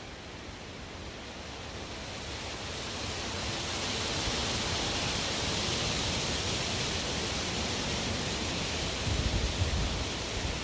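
Strong wind blowing in a gust that builds over the first few seconds and holds, a steady rushing hiss. Near the end, low rumbling buffets of wind hit the microphone.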